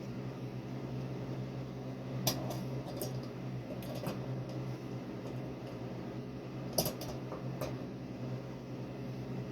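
A few light clicks and taps in small clusters, about two seconds in, about four seconds in and near seven seconds, over a steady low hum.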